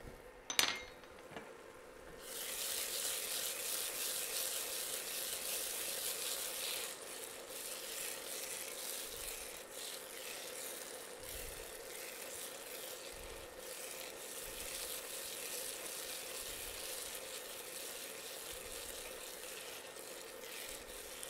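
Chopped shallots and green pepper frying in oil and bacon fat in a pot on an induction cooktop, stirred with a spoon. The sizzle starts suddenly about two seconds in and eases a little after a few seconds.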